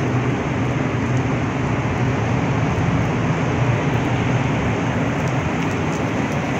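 Heavy rain pouring onto wet pavement and puddles, a steady even hiss, with a faint steady low hum underneath.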